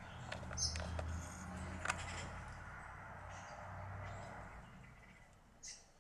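A few short, high bird chirps and a sharp click over a steady low hum.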